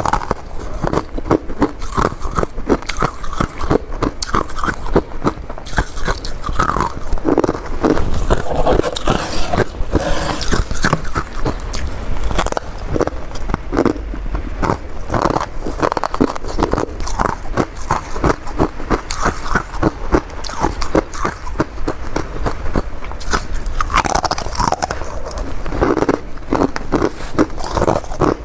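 A person biting and chewing mouthfuls of crunchy humidifier freezer frost, a quick, continuous run of crunches.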